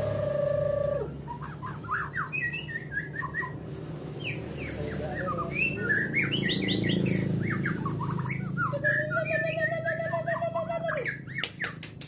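White-rumped shama (murai batu) singing a rapid, varied song of chirps and quick rising and falling whistles. A lower warbling note runs about nine seconds in, followed by a quick series of sharp clicks near the end.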